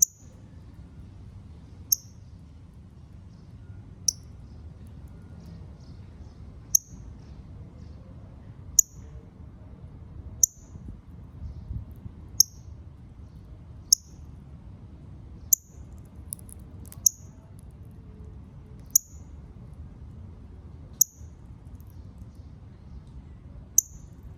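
Northern cardinal giving sharp, high chip calls, one about every two seconds, over a steady low background rumble.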